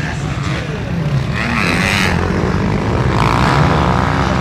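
Motocross bike engines revving and shifting on the track, the pitch rising and falling as riders accelerate and back off, growing louder from about a second in.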